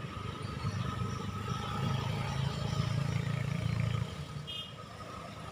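A heavy road vehicle passing with a low engine rumble that builds, is loudest in the middle and drops off suddenly about four seconds in.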